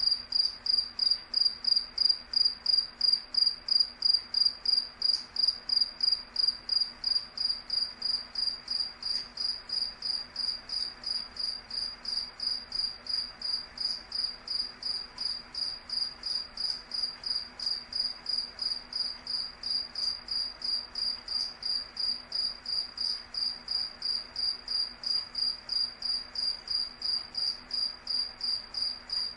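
A cricket chirping steadily: an even run of high, pure chirps at about three a second.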